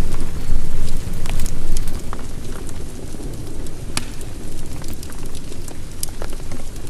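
Heavy rain with a low rolling rumble of thunder that is loudest for the first two seconds and then eases, with scattered sharp ticks of drops throughout.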